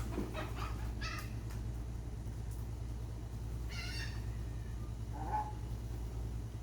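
Seagulls giving a few short calls, the clearest about four seconds in, over a steady low rumble.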